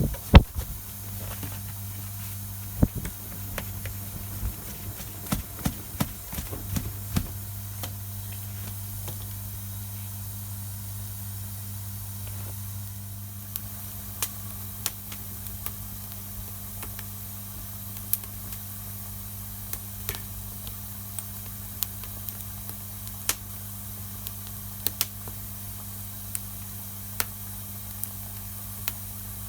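Wood campfire crackling: sharp, irregular pops and snaps over a steady hiss, busier and louder in the first several seconds and then sparser. A steady low hum runs underneath.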